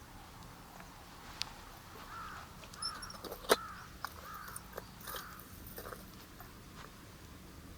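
A bird calling, a quick run of about five short calls, with scattered light clicks and one sharp knock in the middle.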